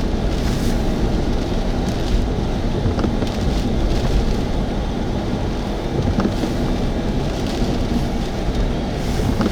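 Hurricane-force wind and heavy rain, a loud, steady rumble with a few sharp ticks scattered through it.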